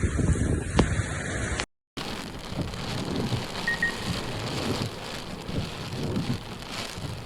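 Heavy rain falling, mixed with wind noise on a phone microphone, with a few sharp drop clicks. The sound cuts out completely for a moment about two seconds in, then the rain carries on.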